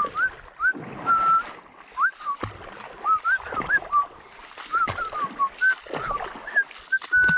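A bird calling with a run of short rising whistled chirps, a few a second, ending in one longer held whistle, over scattered knocks and water splashing.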